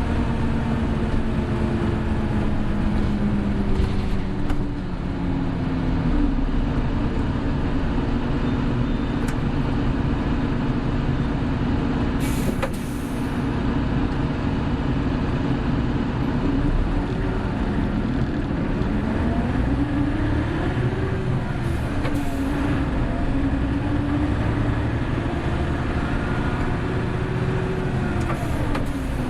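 Interior running sound of a Hino Blue Ribbon City Hybrid bus's diesel engine pulling through the gears. Its pitch drops a few seconds in, then rises and falls twice later on, and there are short hisses of air about 12 seconds and 22 seconds in.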